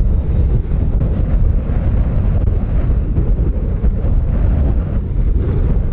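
Jet airliner engines making a loud, steady low rumble.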